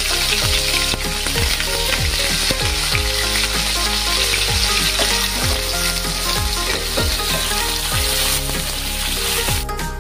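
Parboiled green jackfruit pieces sizzling as they fry in hot oil in a kadai, stirred with a wooden spatula. The sizzle drops away near the end, leaving background music with a steady beat underneath.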